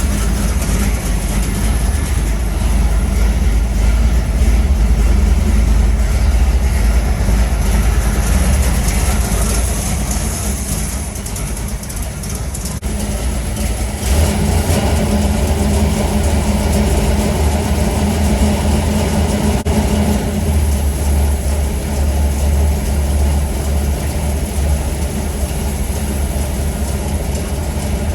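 Ford FE 390 big-block V8 idling steadily with a deep, low rumble, growing louder from about halfway through.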